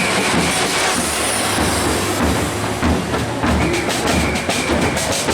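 Loud festival din: drumming in a rattling rhythm over crowd noise, with a steady high whistle-like tone in the first second and again from about three and a half seconds in.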